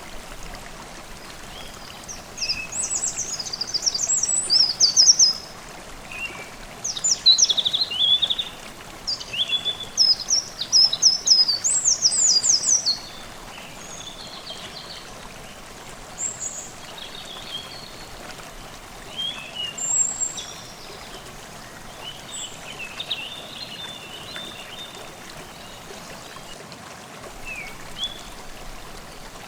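Forest stream running steadily, with songbirds singing over it: a loud run of rapid high song phrases through the first half, then fainter scattered calls.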